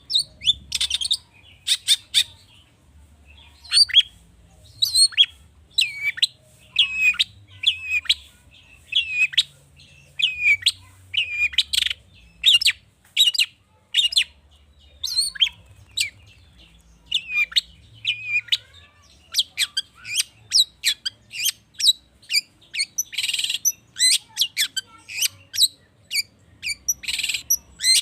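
Long-tailed shrike (cendet) singing a fast, varied song of short sharp notes, chirps and brief whistled glides, packed with mimicked calls of other birds; the phrases come quicker and denser in the second half.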